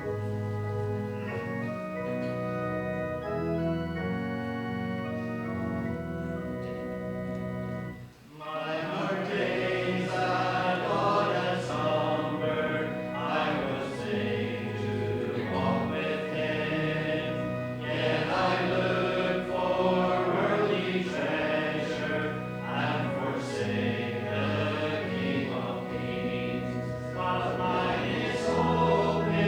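A hymn's instrumental introduction of steady held notes for about eight seconds, then the congregation begins singing with the accompaniment.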